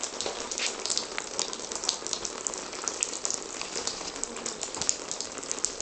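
Water leaking through a ceiling and falling in a dense, steady patter of many drops onto the surfaces below.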